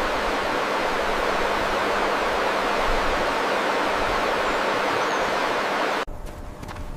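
Steady rushing noise that cuts off abruptly about six seconds in, followed by a quieter stretch with a few faint clicks.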